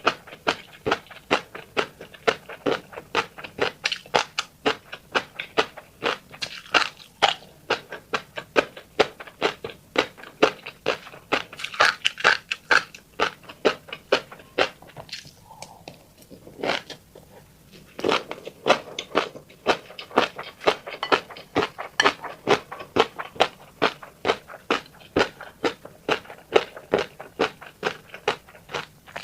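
Close-up mouth sounds of someone chewing fish roe: a rapid run of clicking chews, about three a second, with a short pause about halfway.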